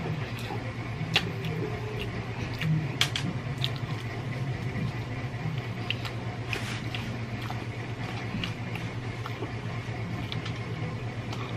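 Close-miked chewing of roast chicken, with scattered wet clicks and lip smacks, over a steady low hum.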